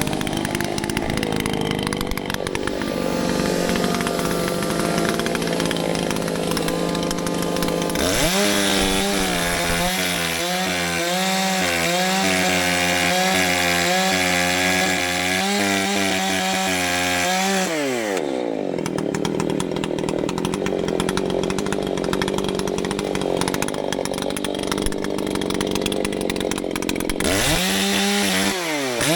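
Gas chainsaw cutting up a downed tree, with one throttle pull of about ten seconds starting around a third of the way in; the engine note then drops as the throttle is let off, and it revs up again near the end.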